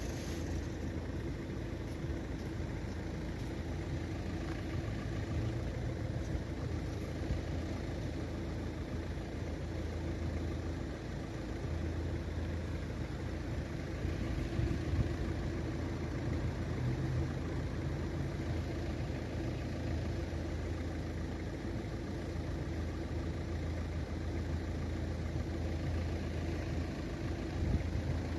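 A car engine idling steadily as a low, even rumble.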